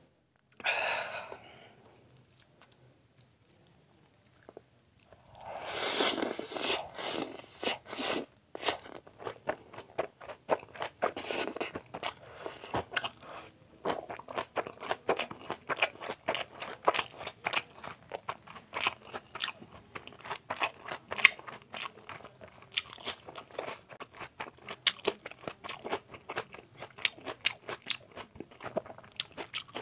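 Close-up chewing and crunching of a mouthful of chicken chow mein eaten by hand, a quick run of sharp wet clicks. It is louder and denser about five to eight seconds in, then settles into steady chewing.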